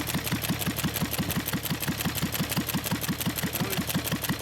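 1923 McCormick-Deering model M 1.5 hp stationary engine running, with a steady rapid mechanical clatter of about six clicks a second.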